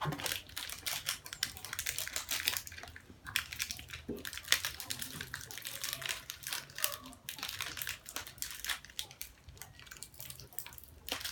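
Plastic snack wrappers crinkling and rustling as they are handled and torn open by hand, in quick irregular crackles.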